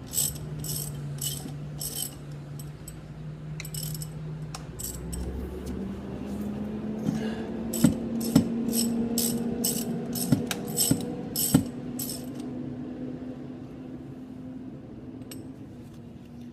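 Ratchet wrench with a 14 mm Allen socket clicking in quick runs as it is swung back and forth, unscrewing the oil screen filter of a Ducati 998; the clicking stops about twelve seconds in. A truck engine drones steadily in the background, stepping up in pitch partway through.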